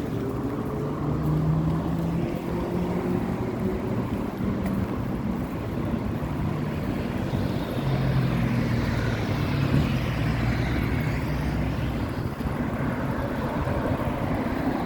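Road traffic heard while riding along a road: a steady low rumble with the engine notes of passing vehicles rising and falling in pitch, one passing more audibly about two-thirds of the way through.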